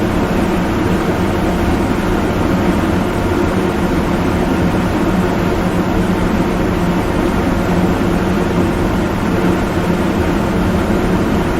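Steady, loud rumbling noise with a low hum running through it, unchanging throughout.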